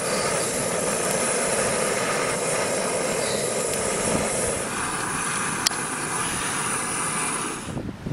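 Small portable camping stove burning with a steady rushing hiss. Its tone shifts higher a little past halfway, and it stops near the end.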